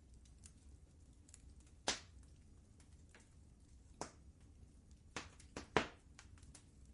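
Wood fire crackling in a fireplace: scattered sharp pops and snaps, loudest about two seconds in and a quick cluster near the end, over a faint steady low rumble.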